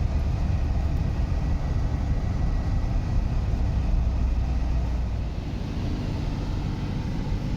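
A vehicle driving, with a steady low rumble of engine and road noise that eases slightly about five seconds in.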